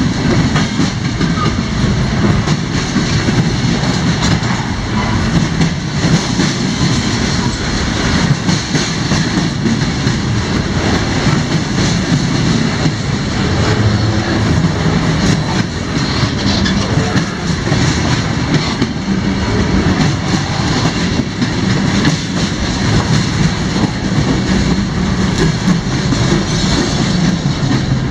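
Cars of a passing CSX freight train rolling by, a steady loud rumble with the wheels clicking and clacking over the rail joints.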